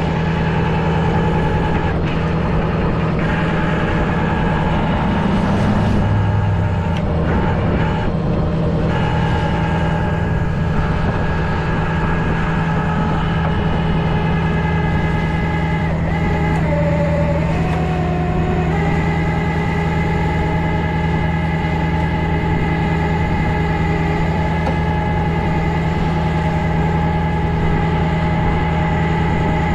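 Tow truck engine running steadily at idle, a constant low hum with higher whining tones on top that waver in pitch about halfway through.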